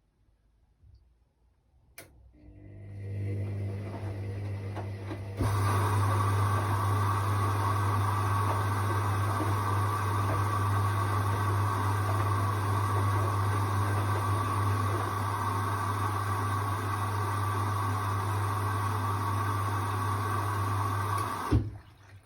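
Hoover washing machine starting a steady electric hum after a click, with a water-like rush joining a few seconds later; both run evenly, then cut off with a click near the end.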